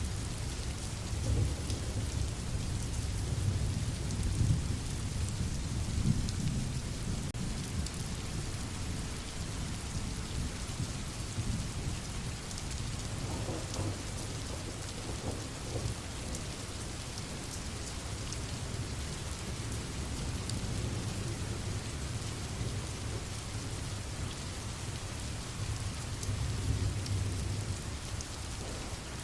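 Steady rain ambience, an even hiss of rainfall, with low rumbling swells in the first few seconds and again near the end.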